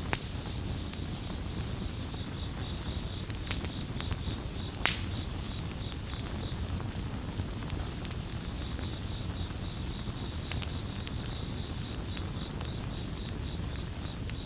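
Campfire burning with a low steady rumble and scattered sharp crackles and pops, two louder pops about three and a half and five seconds in. A cricket chirps in a fast, high, pulsing trill from about two seconds in.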